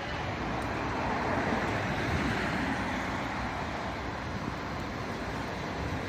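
Steady motor-vehicle running noise, growing a little louder about one to two seconds in.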